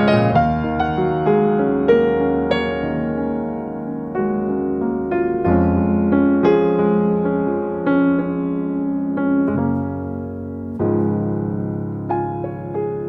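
Background music: a soft piano playing sustained chords with a melody of single notes over low bass notes that change every few seconds.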